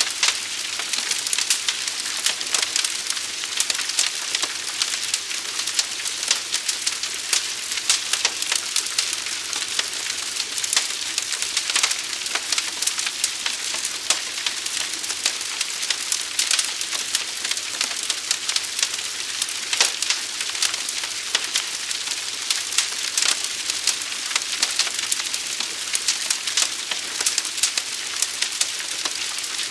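Forest fire burning: a dense, steady crackle of many small sharp pops.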